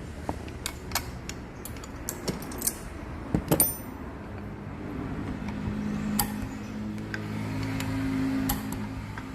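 Sharp metallic clicks and clinks of tools and small metal parts being handled, several in the first few seconds. About five seconds in, a steady engine hum comes up and holds, rising slightly in pitch.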